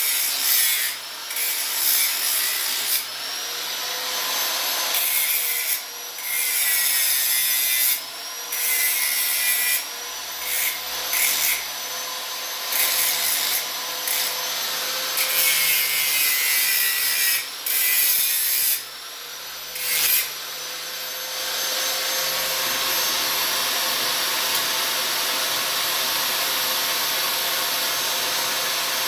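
Electric angle grinder working steel in repeated passes. Its whine drops under load and climbs back up between passes. For about the last third it runs steadily without grinding.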